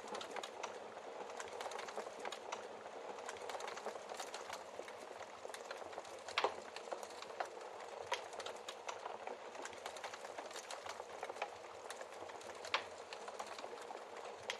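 Wood fire in a fireplace crackling, with a steady hiss and many small snaps. Louder pops come about six seconds in and again near the end.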